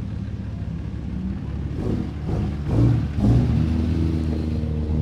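Truck engine running at high power, surging loudly twice about two to three and a half seconds in, then settling back to a steady drone.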